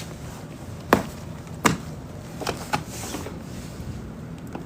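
Sharp knocks from clearing packed snow away from a balcony door: two loud ones about a second apart, then two lighter ones close together.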